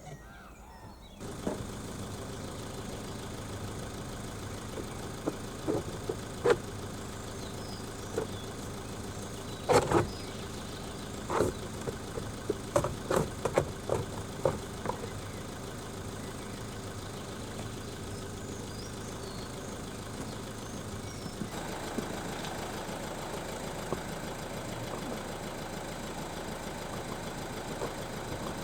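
Toyota RAV4 engine running steadily, setting in about a second in. A scatter of sharp knocks and clatters comes in the middle stretch, like the car working over a rough forest track.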